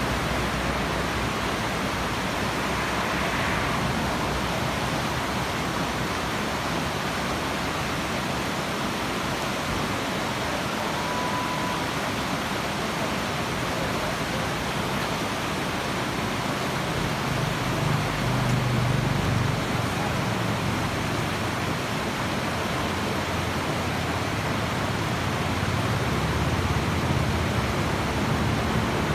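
Steady rush of river rapids, a dense, even hiss of fast water, with low rumbling swells about two-thirds of the way through and again near the end.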